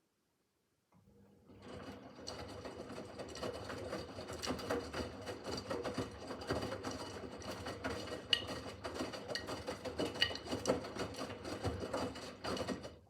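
Miele W5801 WPS washing machine's drum turning, a steady motor hum with many small clicks and knocks from the tumbling load. It starts about a second in and stops suddenly near the end: one turning stroke of the wash rhythm, with pauses before and after.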